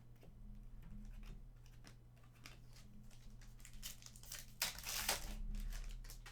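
Trading card pack wrapper crinkling and tearing as it is opened, with light clicks from cards being handled; the loudest rustle comes about four to five seconds in.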